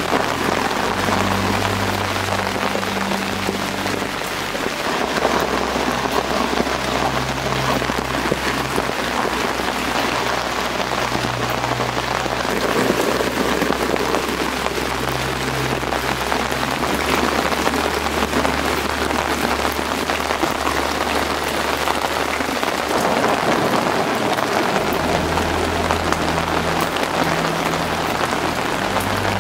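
Steady, heavy rainfall pattering on surfaces, with low sustained tones underneath.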